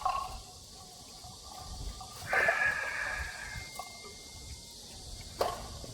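A person drinking from a small bottle of yogurt drink: a sharp click at the start and another near the end, and a noisy slurp or breath lasting about a second, a little over two seconds in.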